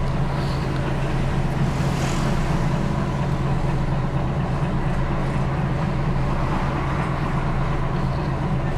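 Bus engine idling steadily with a constant low hum.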